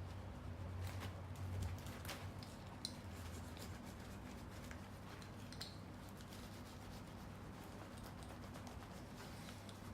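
Faint scattered clicks over a steady low hum.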